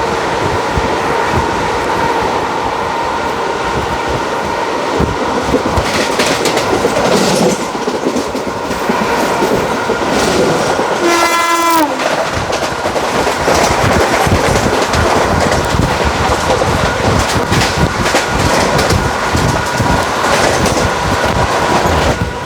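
ICF passenger coaches running at speed behind a WAG5 electric locomotive, with steady wheel rumble and clickety-clack over rail joints. About halfway through comes one short train horn blast that drops in pitch as it ends.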